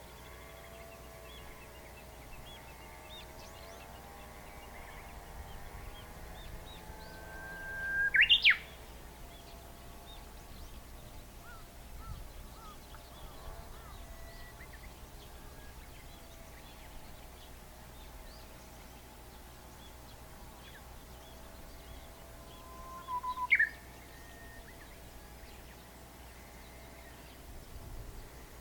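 Japanese bush warbler (uguisu) singing its 'hoo-hokekyo' song twice: each time a held whistle followed by a quick, sharp flourish. The first song, about eight seconds in, is the louder; the second comes near 23 seconds. Faint chirps from other small birds run underneath.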